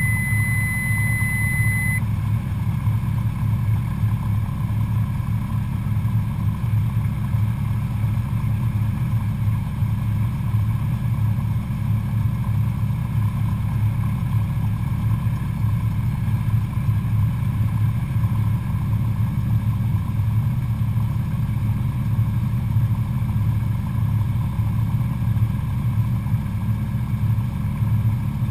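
Cessna 172SP's four-cylinder Lycoming engine and propeller running with a steady, even drone. A high steady beep sounds for about the first two seconds.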